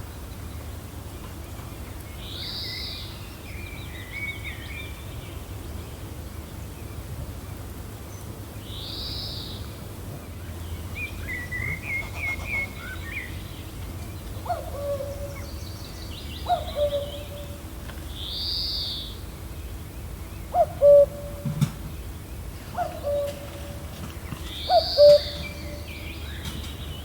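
Woodland ambience of steady low wind with several birds calling: a high arched call repeating every six seconds or so, short chirping trills, and from about halfway a lower short call repeated every couple of seconds, which is the loudest sound.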